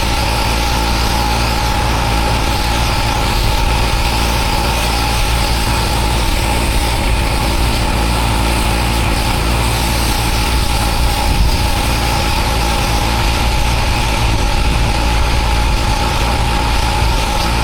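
Pressure washer running steadily, its motor drone with a held tone under the hiss of the water jet on block paving.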